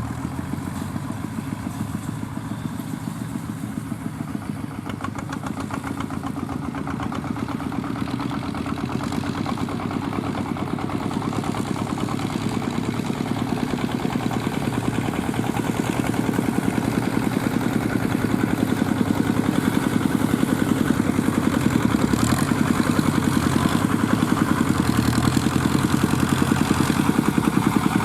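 Fiat 640 tractor's diesel engine running steadily under load while pulling a straw baler, growing gradually louder as it comes closer, with its note dipping briefly a few times near the end.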